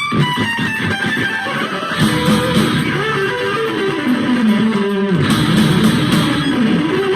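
Rock song with strummed electric guitar, bass guitar and drums.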